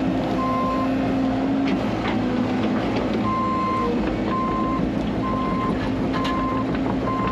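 Diesel earth-moving machine running steadily with its reversing alarm beeping about once a second. The beeps pause for a couple of seconds early on, and a few knocks sound over the engine.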